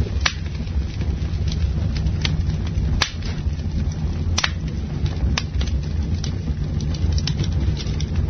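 Campfire burning, a steady low rumble of the flames with irregular crackles and sharp pops from the wood, the loudest pops about three seconds in and again a second and a half later.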